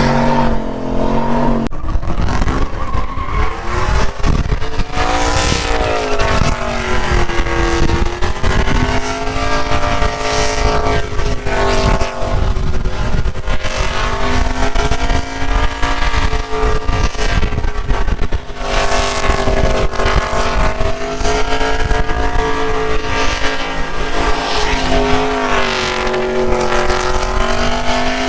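Performance truck engine held at high revs, its pitch repeatedly swelling and dipping.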